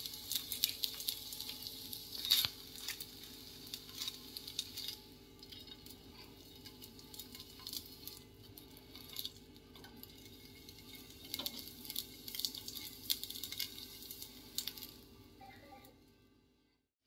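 A rolled rice-flour crepe frying in a little oil on a hot nonstick pan, sizzling with a dense crackle of small pops. The crackle eases in the middle, picks up again, then fades out near the end.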